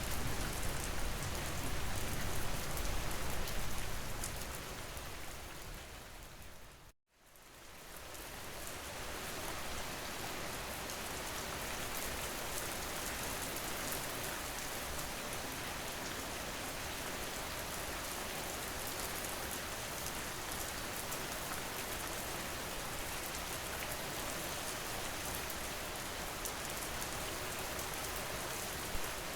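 Ambient rain track, an even hiss of steady rain falling on surfaces. It fades down to a moment of silence about seven seconds in, then swells back up and runs steadily again.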